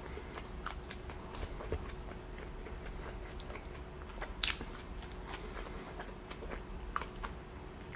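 A person chewing a mouthful of food close to the microphone, with soft wet clicks and small crunches throughout and one sharper click about halfway through.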